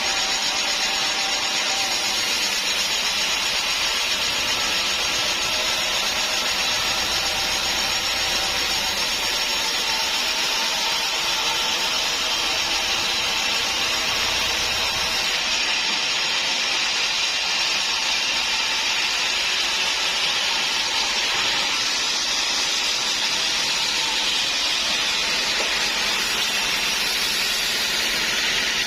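Sawmill saw cutting through hard acacia wood: a steady hissing cutting noise with a faint whine, unbroken throughout.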